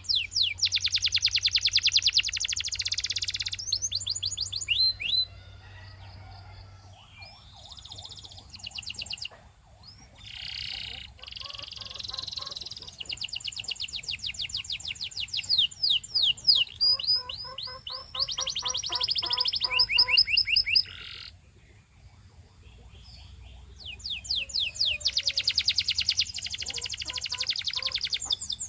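Canary singing: phrases of rapid repeated notes and fast trills, broken by short pauses.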